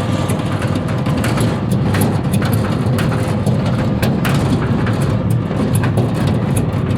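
Small vehicle engine running steadily under way, with frequent short rattles and knocks over it.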